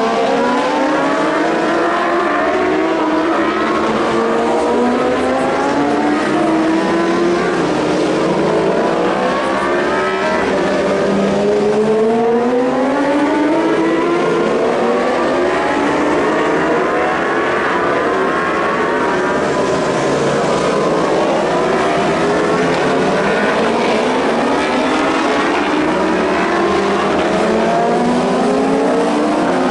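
Several superbike racing motorcycles accelerating hard, their engines overlapping. Each engine climbs in pitch again and again and drops back at every upshift.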